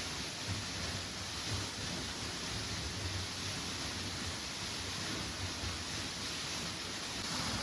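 Steady rain falling, an even hiss with no distinct drops or knocks.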